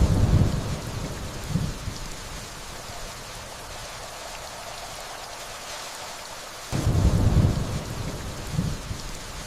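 Steady rainfall with two deep rolls of distant thunder, one at the start and one about seven seconds in. Each roll swells twice before fading back into the rain.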